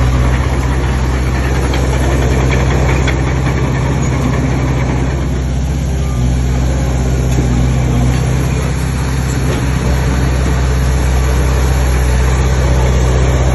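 Heavy diesel engine of an earthmoving machine running steadily with a low, even drone, with scattered short clanks and rattles over it.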